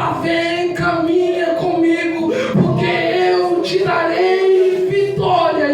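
A voice singing long held notes that bend from one pitch to the next, with little or no accompaniment.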